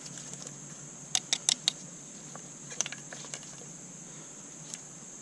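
Light sharp clicks and taps of hands and a tool working the plastic clips of an engine wiring harness: a quick run of four clicks about a second in, then a few scattered ones, over a steady hiss.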